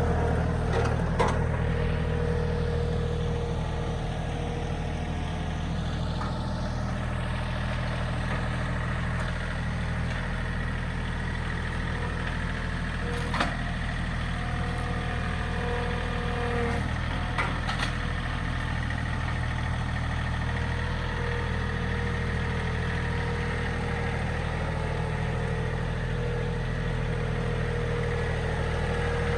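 John Deere 3032E compact tractor's three-cylinder diesel engine running steadily at a low, even speed. A few sharp knocks cut through it, one about a second in and two in the middle.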